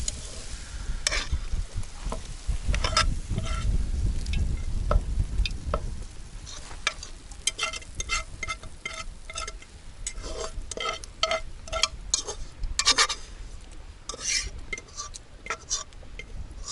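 A metal spoon stirring and scraping in metal cookware, with many quick clinks that ring briefly, over the sizzle of frying food.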